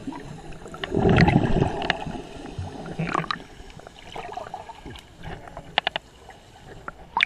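Seawater sloshing and splashing close to the microphone, surging loudest about a second in, with a few sharp little taps near the end.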